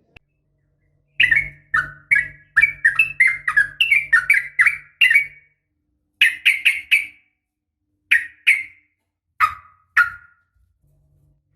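Yellow-vented bulbul (trucukan) calling: a fast run of bubbly, downslurred chirping notes for about four seconds, then shorter groups of notes broken by pauses, ending in two single notes. It is a recording sold as a female calling a male, used as a lure to make caged males sing.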